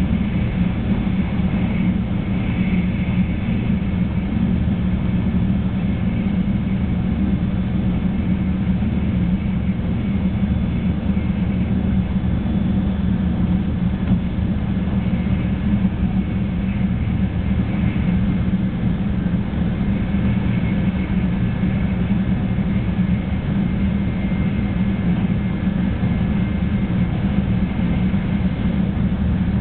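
Steady running noise inside a 300 series Shinkansen passenger car at speed: a constant low rumble with a faint hiss above it.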